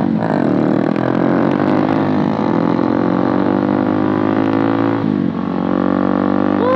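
Dirt bike engine running under way, the revs climbing and then dropping sharply with gear changes about two and five seconds in.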